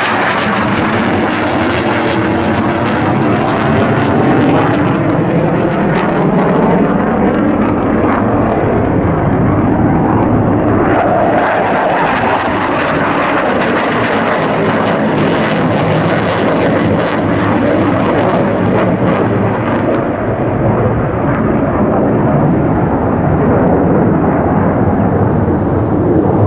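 Fixed-wing display aircraft flying past: loud, steady engine noise whose pitch slowly slides up and down as it passes.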